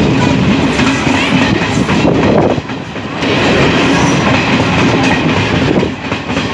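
A DEMU (diesel-electric multiple unit) train running along the track, heard close beside its moving coaches: a loud, steady running noise that dips briefly about two and a half seconds in and again near the end.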